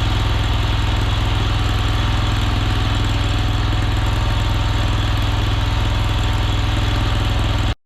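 Mini skid steer's engine running steadily, a constant low hum, as the machine is used to work its thrown track back onto the rollers. It cuts off abruptly near the end.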